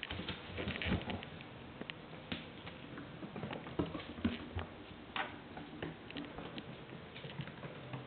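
Three-week-old-plus kittens scampering about, their paws and claws tapping and pattering on the floor in quick, irregular light clicks.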